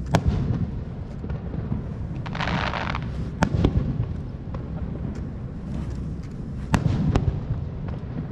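Aerial fireworks going off: sharp bangs near the start, a pair a little after three seconds and another pair near seven seconds, over a steady low rumble of bursts echoing. A hissing crackle a little after two seconds.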